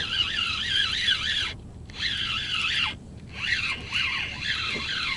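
A bird singing a fast warbling song in phrases of one to two seconds, with short pauses between them.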